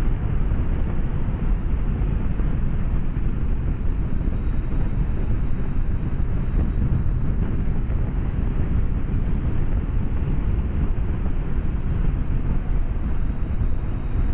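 Steady low rumble of wind and road noise on a moving BMW K1200S motorcycle, picked up by a microphone inside the rider's helmet. It runs evenly, with no clear engine note standing out.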